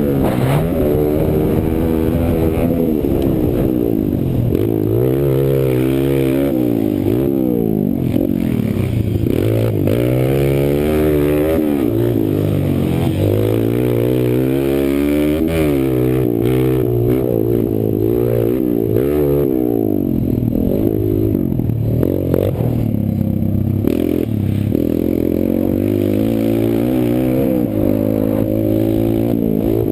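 Kawasaki KLX140 pit bike's single-cylinder four-stroke engine being raced, revving up and falling back over and over, its pitch rising and dropping every second or two as the throttle opens and closes, with occasional knocks.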